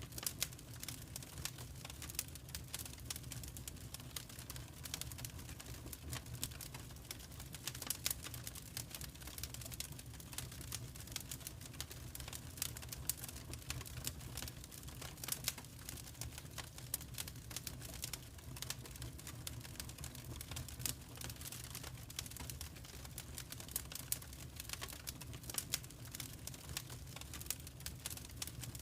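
Log fire crackling in a fireplace: many small, irregular pops and snaps over a steady low rumble of the flames.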